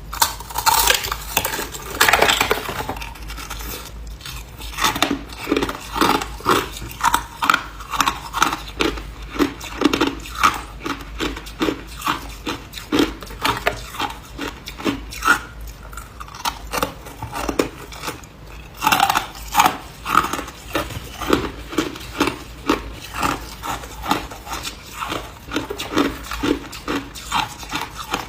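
A person crunching and chewing ice, with a steady run of sharp crunches about two or three a second. There are louder, denser bursts in the first few seconds and again about two-thirds through.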